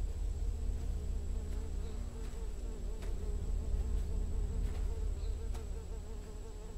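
Insects buzzing: a steady, wavering drone over a low rumble, with a few faint clicks.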